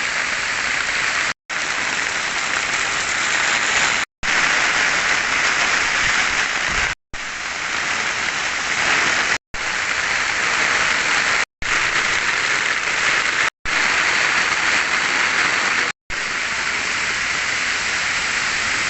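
Heavy rain pouring down, a steady dense hiss, in a string of short clips cut together with abrupt breaks between them.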